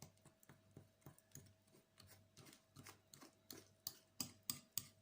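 Faint, irregular light clicks and taps of dishware and utensils, about two to four a second, getting louder near the end.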